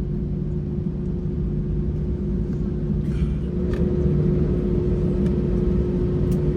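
Steady low rumble and hum inside a jet airliner's cabin as it taxis to the gate after landing, with a steady tone running through it; it grows a little louder about halfway, with a few faint clicks.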